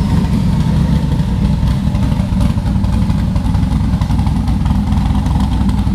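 Twin-turbocharged 427 LSX V8 running loud and steady with a choppy, low rumble.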